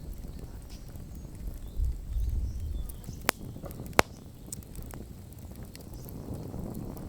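Campfire wood crackling, with scattered faint ticks and two sharp pops about three and four seconds in, the second the loudest. A low rumble swells about two seconds in.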